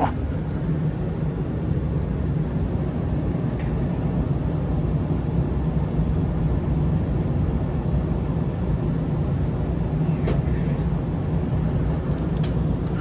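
A 20-year-old Bryant gas furnace running with its burners lit: a steady low hum and rush from the burners and inducer motor, with a few faint ticks.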